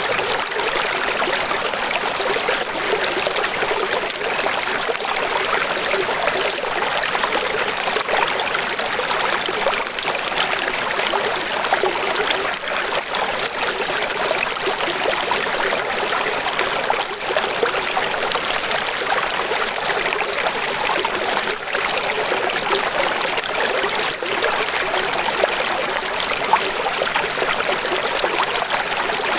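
Steady rushing water, an even hiss with little low rumble and no breaks.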